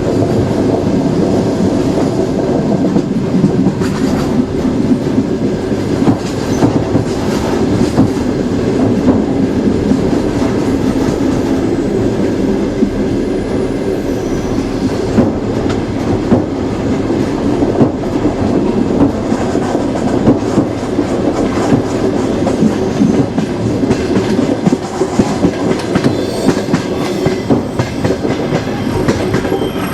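Train wheels running over the rails: a steady rumble with irregular clacks and knocks from the wheels passing over the track.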